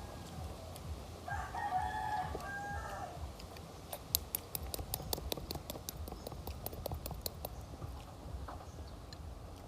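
A rooster crows once, starting about a second in and lasting under two seconds. A quick run of sharp clicks follows for about three seconds.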